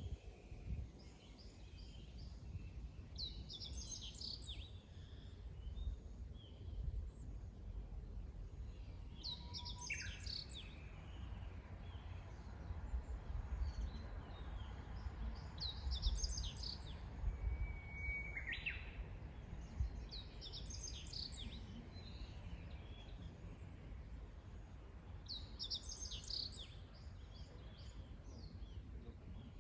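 Wild birds singing in short, high chirping phrases every few seconds, one of them a brief held whistle that drops off, over a low steady rumble.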